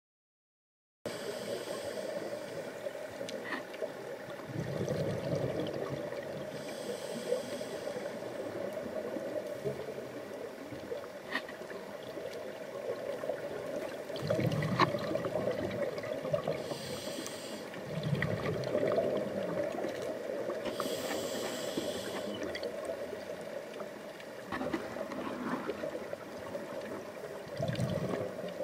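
Water noise: a steady watery hiss with a low bubbling surge every few seconds, and short high hisses now and then.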